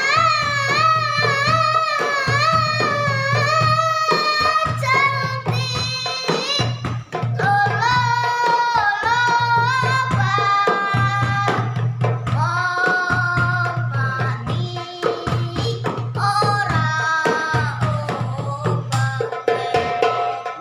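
A boy singing a sholawat melody in a high voice, with wavering, ornamented held notes, over rebana hand-drum percussion in banjari style.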